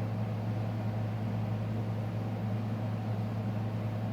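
Steady low machine hum with no other events.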